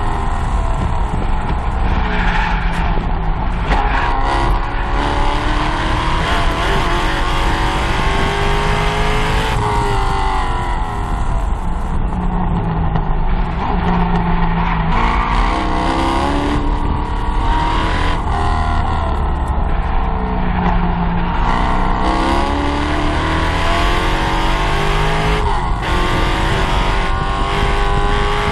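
C5 Corvette Z06's LS6 V8 heard from inside the cabin at racing pace: revs fall under braking and downshifts, then climb again and again at full throttle, with a sudden drop at each gear change, over steady road and tyre noise.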